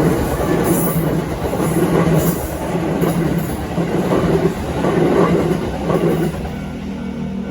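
Kintetsu Nara Line electric train running past a level crossing, its wheels clattering over the rail joints in a rhythmic clickety-clack that eases off about six seconds in.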